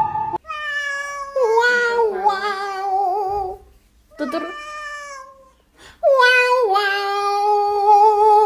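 A cat yowling in three long drawn-out meows, the first and last each several seconds long and dropping in pitch in sudden steps partway through.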